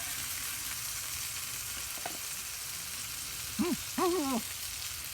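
Pork belly sizzling steadily on a hot grill pan, with a brief voice sound or two about three and a half to four seconds in.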